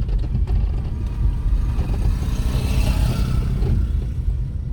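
Low rumble of a vehicle driving along a rough road, with a broad hiss of a passing vehicle swelling and fading a little past the middle.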